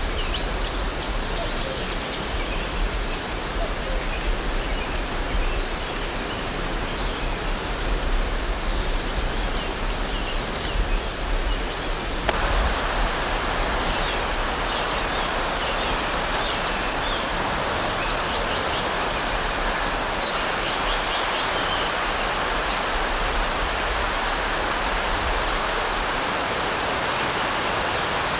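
Small birds chirping repeatedly over a steady outdoor rushing noise. About twelve seconds in, the noise abruptly gets louder.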